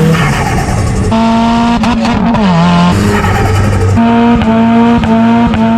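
Straight-piped Nissan S15 Silvia's turbocharged SR20 four-cylinder engine revving hard and held at high revs, loud, its pitch dropping once about two seconds in and climbing back, then held steady again with short breaks near the end.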